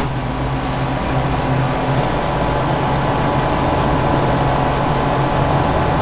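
BGA rework station running steadily, its vacuum pump holding the chip on the pickup nozzle while the head is lowered onto the board. A low hum within it stops about two seconds in.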